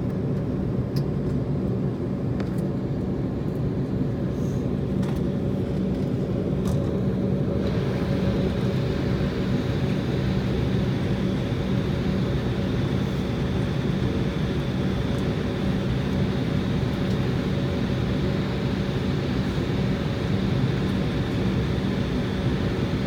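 Jet airliner cabin noise on the ground: a steady hum of the running engines and cabin air, with a steady tone. About eight seconds in, a higher hiss steps up and holds.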